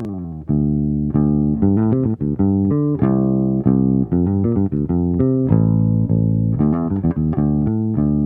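Instrumental introduction played on plucked guitar and bass guitar, a run of picked notes starting abruptly.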